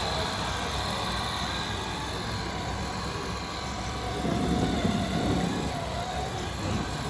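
Steady mechanical running noise of radio-controlled model construction vehicles, with a faint steady high whine and a louder spell of low noise about four seconds in that eases off after a couple of seconds.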